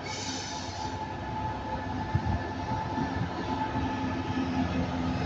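Class 66 diesel freight locomotive and its train running slowly through the station: a steady rumble and hum, with a low engine note coming up about three seconds in and the sound growing slightly louder.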